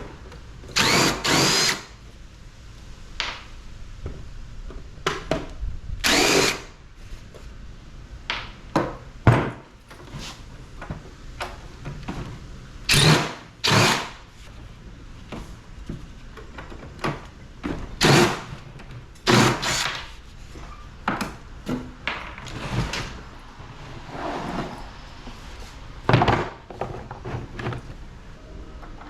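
Power drill/driver run in short bursts, backing screws out of an air-conditioning unit's sheet-metal casing, with knocks and clatter of metal parts in between.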